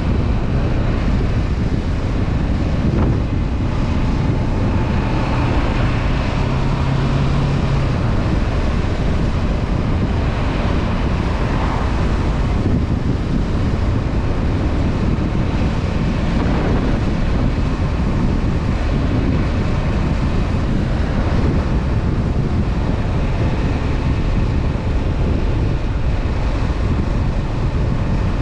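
Honda CB500F parallel-twin engine running on the move, under a steady rush of wind over the microphone.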